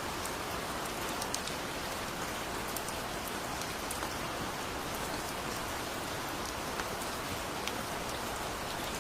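Steady rain falling, with scattered sharp drop clicks standing out above the even hiss.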